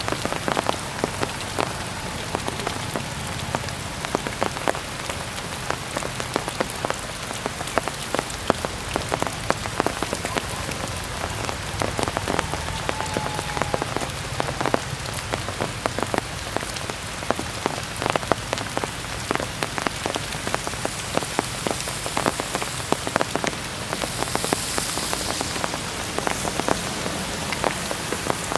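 Heavy rain falling steadily, a dense hiss with many sharp drop impacts close to the microphone. A brighter, hissier swell comes near the end.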